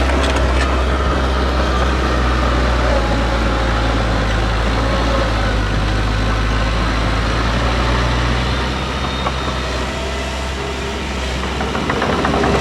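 Heavy diesel earthmoving machine's engine running steadily with a deep low hum, easing slightly about nine seconds in and picking up again near the end.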